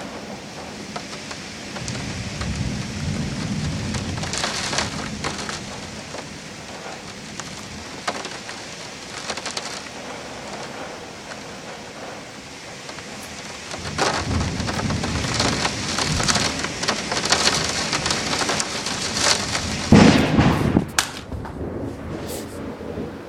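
Heavy rain falling steadily, with thunder rolling in: a low rumble a few seconds in, then a longer, louder rumble building through the last third to its strongest clap near the end.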